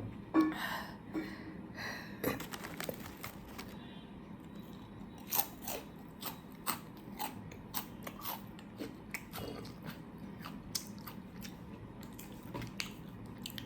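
A person eating close to the microphone: irregular mouth sounds of biting and chewing, with many short, sharp wet clicks and crunches, the loudest about half a second in.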